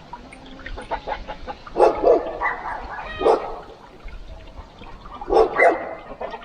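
A dog barking, five short barks mostly in pairs: two close together about two seconds in, one a second later, and two more near the end.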